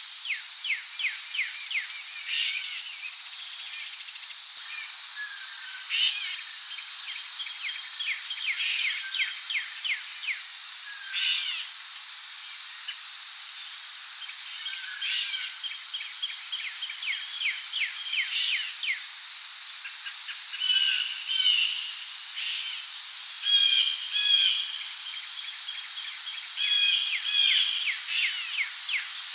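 Rainforest ambience: a steady high insect drone with many birds calling over it. The calls include fast runs of short falling notes, sharp single calls every few seconds, and chattering phrases in the last third.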